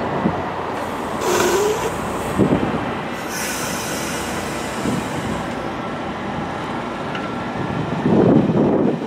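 Metra bi-level gallery commuter cars rolling past, a steady rumble of wheels on the rails. Two short high-pitched bursts come about one and a half and three and a half seconds in, and a louder rush near the end.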